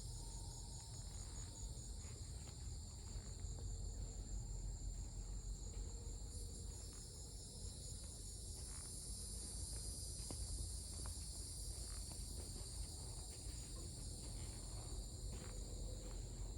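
Faint steady insect trilling, high-pitched and continuous, over a low rumble.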